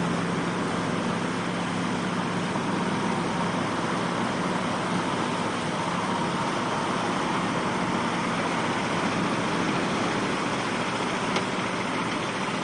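A truck engine running steadily, with a brief click near the end.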